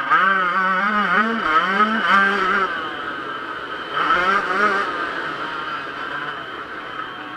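Yamaha YZ125 two-stroke motocross engine revving hard, its pitch rising and falling quickly as the throttle is worked. The loudest run of revs is in the first three seconds, with another about four seconds in.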